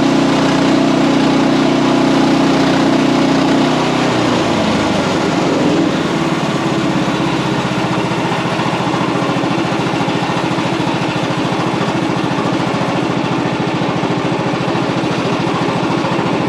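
Small gasoline engine of a portable bandsaw mill running steadily while the blade saws through a log. About four seconds in, its note changes to a slightly quieter, rougher pulsing.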